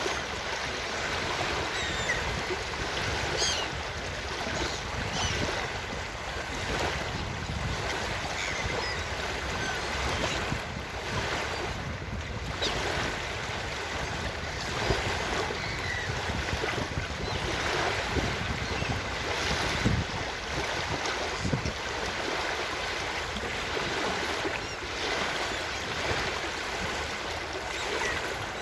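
Ocean surf washing steadily onto a beach, the level swelling and easing with the waves, with a few faint short seagull calls scattered through. A brief low knock about two-thirds of the way in.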